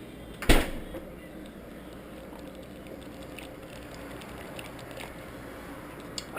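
A single sharp knock about half a second in, followed by low room tone with a few faint small clicks.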